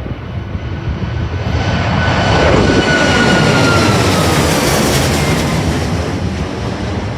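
Jet airliner's engines passing close by, the rumble swelling to a peak about halfway and then easing off, with a fan whine that drifts slightly lower in pitch as it goes past.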